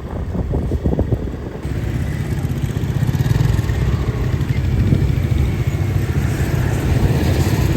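Motorbike engine running close by, growing louder about a second and a half in and then holding steady, after a few short knocks at the start.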